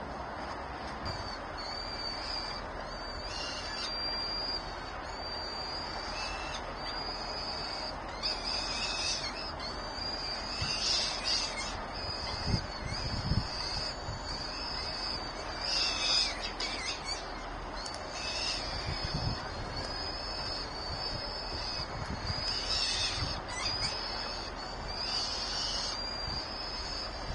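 Birds in a nest giving high, thin calls over and over, typical of chicks begging for food, with a few low thumps partway through.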